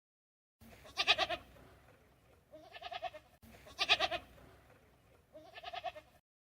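Bleating of a goat or sheep-type farm animal: a loud, wavering bleat about a second in and a shorter, quieter one a moment later, then the same pair again exactly, as if the recording repeats.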